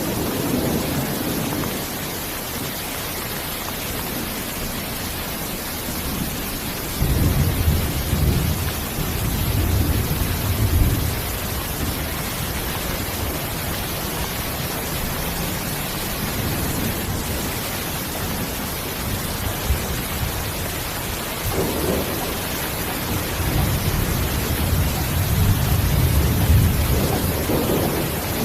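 Steady heavy rain with low rolls of thunder rumbling, one about seven seconds in lasting several seconds and another building near the end.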